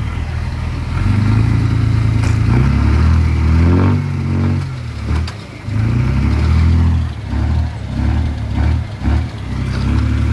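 Diesel engine of heavy earthmoving machinery revving under load, its pitch rising about four seconds in, dropping, then surging up and down several times.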